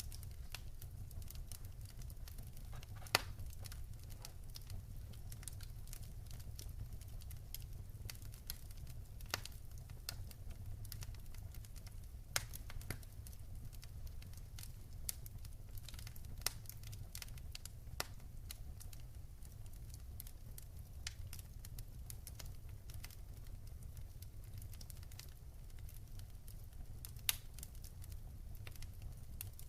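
Wood fire burning in a fireplace, crackling with frequent irregular sharp snaps and pops, a few of them louder, over a low steady rumble.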